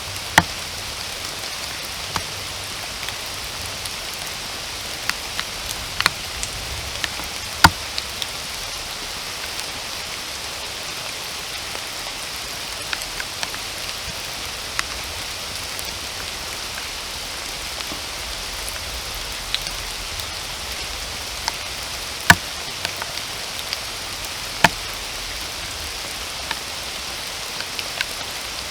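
Steady rain: an even hiss of falling rain with scattered heavy drops striking close by as sharp taps, the loudest about 8 and 22 seconds in.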